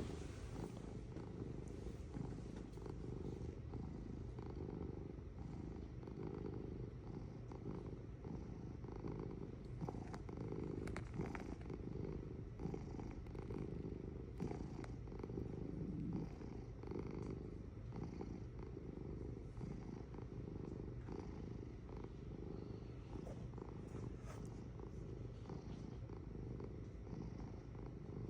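Domestic cat purring steadily and continuously, a low rhythmic rumble that swells and fades with each breath in and out.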